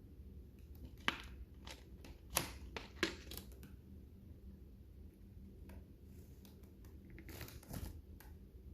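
Lovebirds cracking and husking seeds with their beaks: scattered sharp cracks and crunches, the loudest about a second in and between two and three seconds in, with a crackly cluster near the end.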